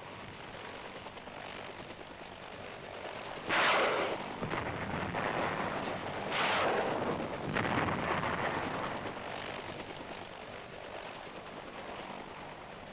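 Explosions over a steady rushing background: a loud blast about three and a half seconds in, a second about six and a half seconds in, and a smaller one soon after, each dying away over about half a second.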